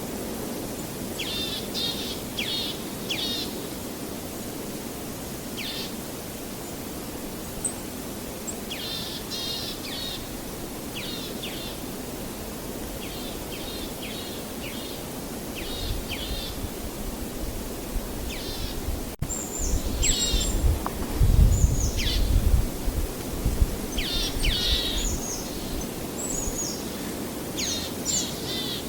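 Small birds chirping and trilling in short repeated phrases over a steady background hiss. About halfway through, a deep rumble swells for several seconds and is the loudest sound, then fades back.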